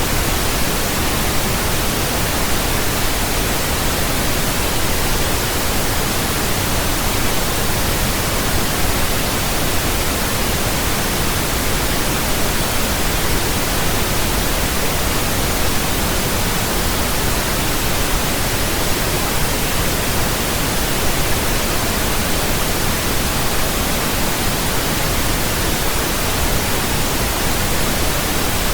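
Steady synthetic pink noise: an even, unchanging hiss spread evenly across low and high pitches, deeper than white noise.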